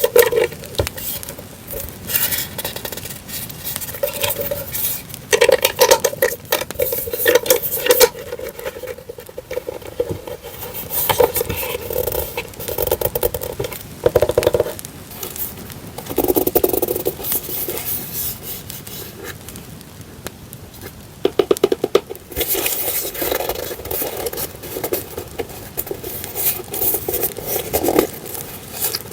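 Paper and sticker items being handled, rustling and scraping in irregular surges, over a crackling campfire sound with many small pops.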